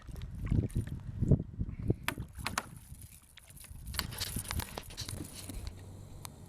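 A run of irregular knocks and thumps, with a brief hiss about two-thirds of the way through.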